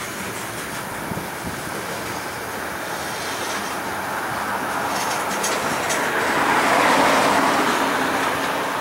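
Freight train cars rolling past on the rails, a steady rumble of wheels on track that grows louder about two-thirds of the way through, with a few clicks of the wheels.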